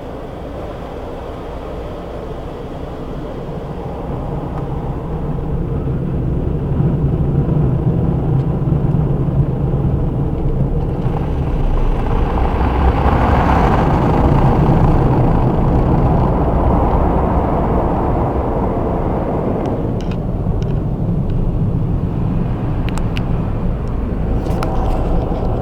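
Car wash running: a steady rush and low rumble of the wash equipment and water that builds over the first several seconds and stays loud, with a few sharp taps near the end.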